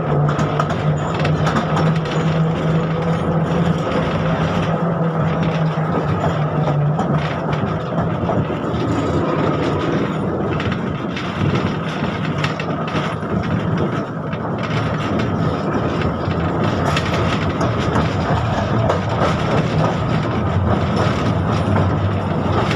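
KTM-5M3 (71-605) tram in motion, heard from inside the car: a steady rumble of wheels on rail with scattered clicks, under the hum of its DK-259 traction motors. The hum weakens about a third of the way in and comes back lower in pitch near the end.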